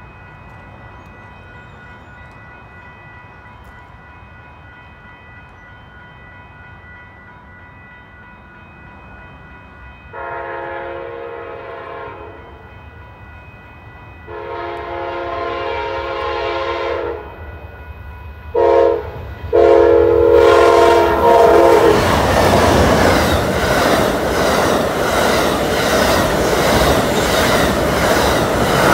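Amtrak passenger train approaching and passing: its locomotive horn sounds the grade-crossing pattern, long, long, short, long, and then Superliner bilevel cars go by close and loud with a steady rapid rhythm of wheels over the rails.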